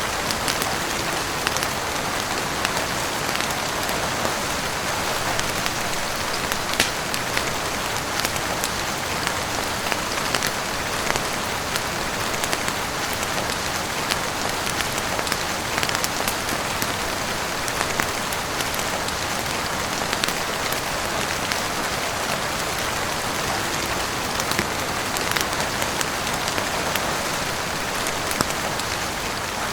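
Steady heavy rain falling on a roof, dotted with frequent sharp little ticks and pops.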